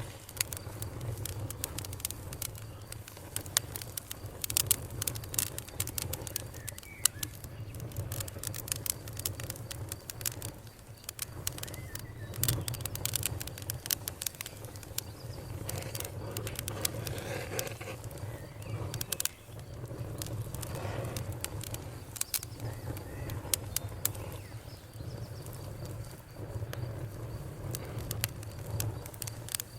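Wood fire crackling in a fireplace: frequent irregular sharp pops and snaps over a steady low rumble of the burning logs.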